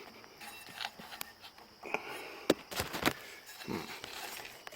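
A few sharp clicks and knocks, the loudest about halfway through, with some breathing, as hands and tools work at a small go-kart engine to turn it backwards; the engine does not turn and seems stuck, which is suspected to be a stuck valve.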